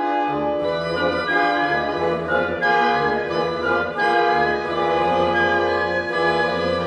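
Chamber orchestra playing classical music: sustained, slowly changing chords over a bass line, with horns prominent.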